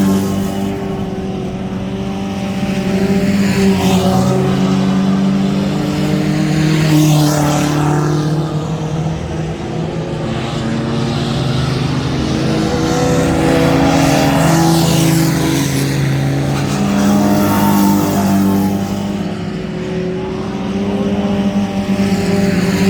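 Several mini truck race engines running hard around the track, revving and passing by, their pitch rising and falling again and again as the trucks come past.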